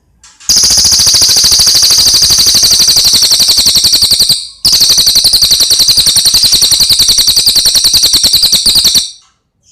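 A cililin singing two long, very fast, high-pitched trills, loud and rapid-fire like a rattle, with a short break between them.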